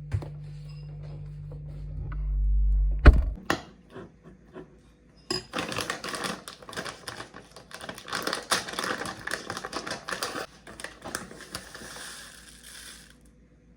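Packaging being handled and opened: a low rumble of handling ends in a sharp click about three seconds in. Then comes about eight seconds of dense crackling and rustling.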